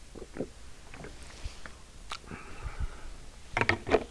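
Close mouth sounds of a person chewing soft sweet bread (concha): scattered wet lip smacks and clicks, with a louder cluster of smacks near the end.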